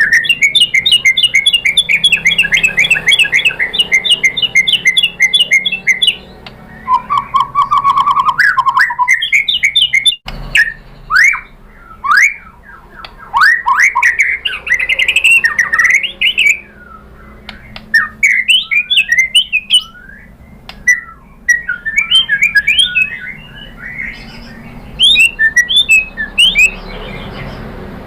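White-rumped shama singing a varied song. It opens with a fast run of quickly repeated notes, then a lower trill, then a string of rising and falling whistles and sweeps, with quick repeated notes again near the end.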